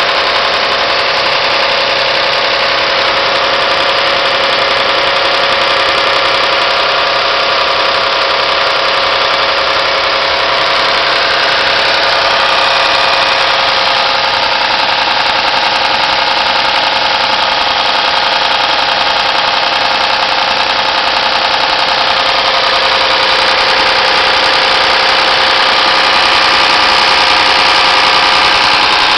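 Mazda Xedos 6's 2.0 KF V6 engine idling cold just after a morning start, running steadily with a rapid clatter (klekot) that appears only on a cold engine, its cause unknown to the owner.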